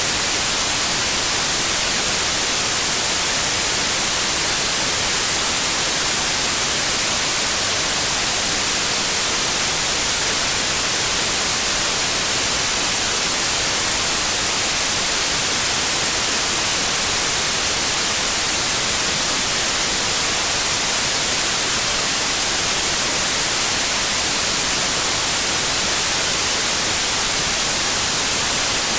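Steady white noise, an even hiss with most of its energy in the high frequencies and no change in level.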